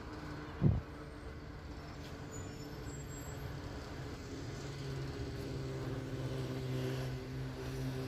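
Street traffic: a motor vehicle's engine running with a steady hum that grows louder over the second half. There is a brief low thump about two-thirds of a second in.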